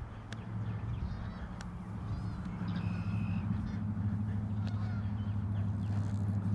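A steady low hum of vehicle engines from nearby road traffic, growing gradually louder, with a few faint bird calls about two to three seconds in.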